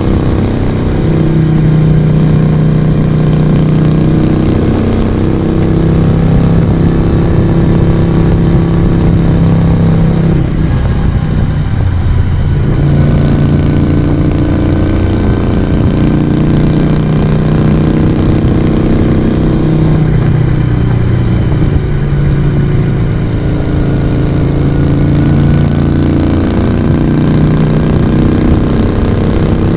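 Moto Guzzi V35's small air-cooled V-twin and exhaust running under way, the engine note steady for stretches and stepping up and down with the throttle. The note falls away briefly twice, about a third and two-thirds of the way in, then picks up again.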